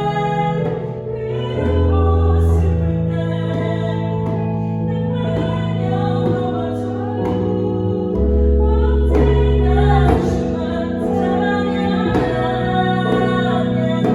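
Worship song performed live: a woman singing with instrumental accompaniment held on long sustained chords and bass notes, and a few djembe strokes.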